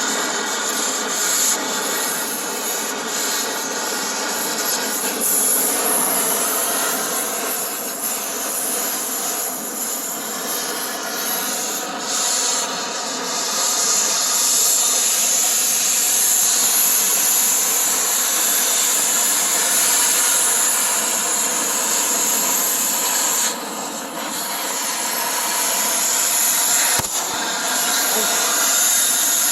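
Power tool cutting through the rear bumper's rusted-in mounting bolts, which would not come out with wrenches: a steady whining, grinding run with a brief dip about three-quarters of the way through.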